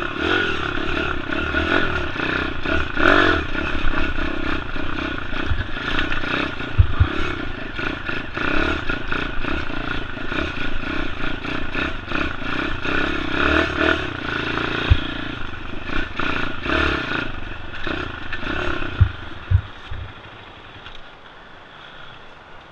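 Pit bike engine running as the bike is ridden over rough ground, the revs rising and easing, with clattering and a few knocks from the bike over bumps. The engine sound falls away near the end.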